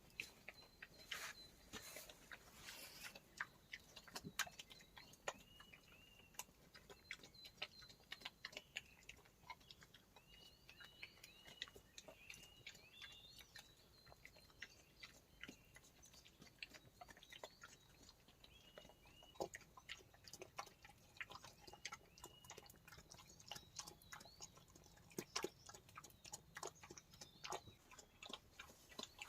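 Wild boar eating, a faint, irregular scatter of chewing and crunching clicks. A small bird repeats a short chirping call in the background.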